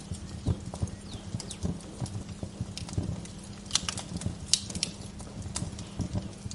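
Wood fire crackling in a fireplace, with irregular sharp pops and snaps over a steady low rumble. A few short, faint bird chirps come through now and then.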